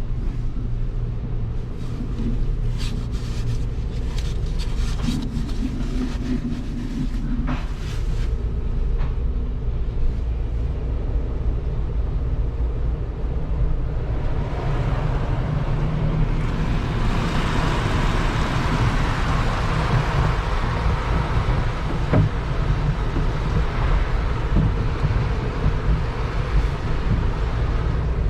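An automatic car wash heard from inside the car's cabin: a steady low rumble, with scattered knocks and taps in the first several seconds, then a rushing spray of water over the body building up about halfway through and carrying on to the end.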